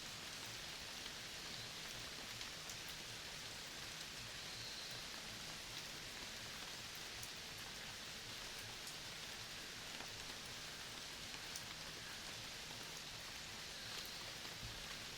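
Faint, steady outdoor forest ambience: an even hiss with scattered light ticks, and a couple of brief soft high calls about a third of the way in and near the end.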